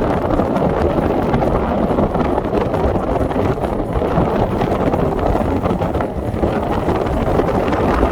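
Wind buffeting the microphone: a steady, loud, low rumble with no clear tones.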